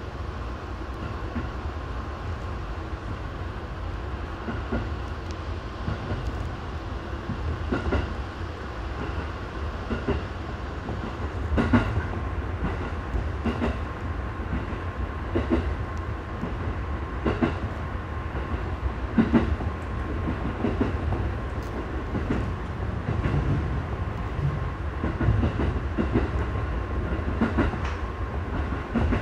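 JR 211-series electric train running, heard from inside the driver's cab: a steady low rumble with its wheels clicking over rail joints about every two seconds.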